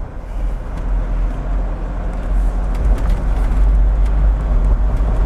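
The Force Gurkha Extreme's diesel engine and road noise heard from inside the cabin while driving. It is a steady low drone that grows a little louder about a second in.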